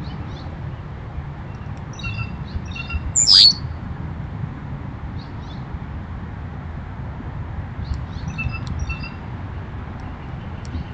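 Outdoor birds chirping in short clusters of high notes, with one loud, sharp squawk about three seconds in. A steady low rumble lies underneath.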